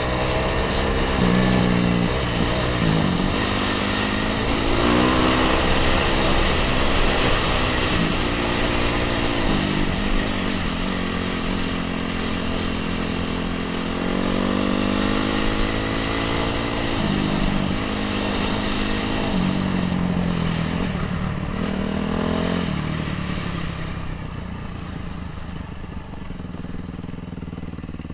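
Off-road vehicle engine accelerating through the gears: the pitch climbs, drops back at each shift, and climbs again, several times over. It fades near the end.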